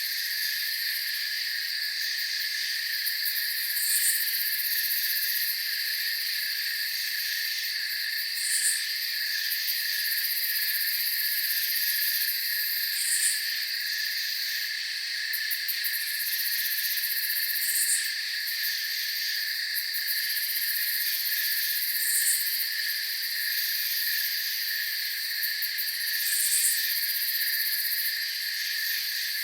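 Night chorus of crickets trilling steadily, with a short high chirp that repeats about every four and a half seconds.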